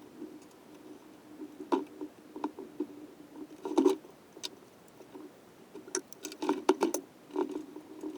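Scattered clicks and taps of hand tools and engine parts being handled during assembly of a small motorcycle engine, with a cluster of quick knocks near the end, over a steady low hum.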